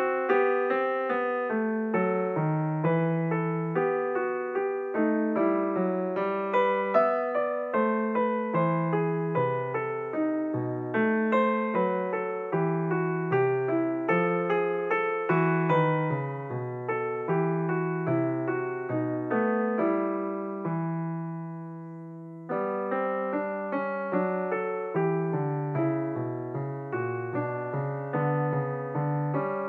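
Solo piano background music, a steady run of single notes and chords; about two-thirds of the way through a chord is held and fades out, then the playing picks up again.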